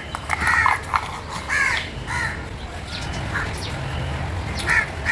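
Crows cawing: a few harsh caws in quick succession in the first couple of seconds, then a couple more near the end.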